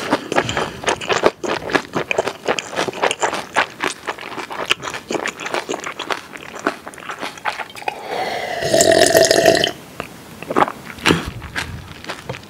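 Close-miked chewing of a mouthful of pork kimchi duruchigi, with many crisp, wet crunching bites. About eight seconds in comes a loud belch lasting about a second and a half, then the chewing goes on.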